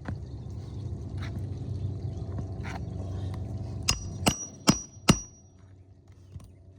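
Hammer driving a roofing nail into a shingle: four quick sharp metal strikes, about two and a half a second, with a ringing note, after a low rumble.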